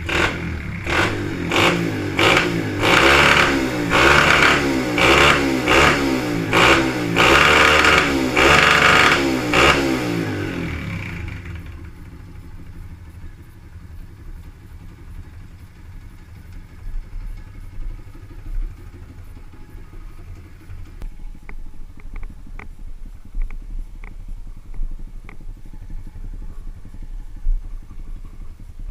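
124cc pit bike's single-cylinder engine revved in a run of quick throttle blips, rising and falling in pitch, for about the first ten seconds, then dropping back to a quiet, steady idle.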